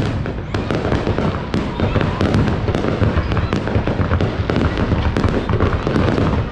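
Fireworks display going off: a rapid, continuous run of bangs and crackles over a low rumble.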